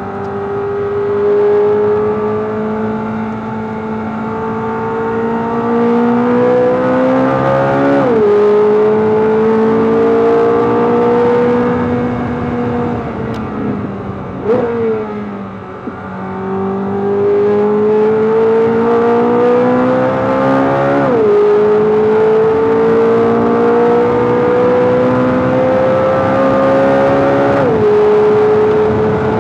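Chevrolet Corvette C8 Z06's flat-plane-crank 5.5-litre V8 at full throttle on track, its pitch climbing steadily through each gear. It drops sharply at upshifts about 8 seconds in, about 21 seconds in and near the end. Near the middle the note falls away and gives a quick blip before the engine pulls again.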